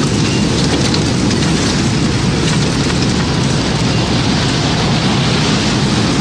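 Tornado storm sound effect: a loud, steady, deep rumble of wind and heavy rain.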